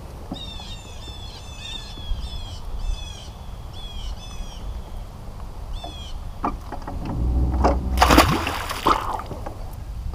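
A bird chirping over and over in short falling notes, several a second, for about the first six seconds. About seven seconds in comes a louder splashing, rushing noise with a low rumble that lasts about two seconds.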